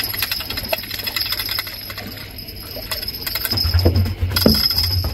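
Fishing reel being cranked while reeling in a fish: a fast run of small clicks, then heavier low bumps and knocks about three and a half seconds in.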